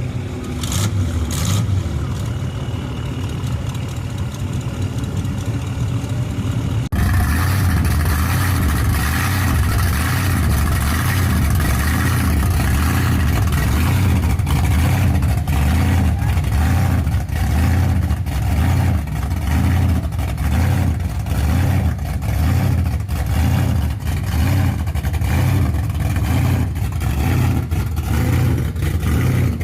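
Car engines running and revving, with a deep exhaust rumble. The sound changes abruptly about seven seconds in, then rises and falls as cars go by.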